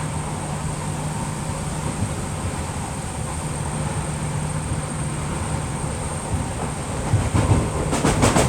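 Merseyrail Class 508 electric train running, heard from inside the carriage: a steady rumble with a low hum, growing louder and rougher near the end with a quick run of wheel clacks over rail joints.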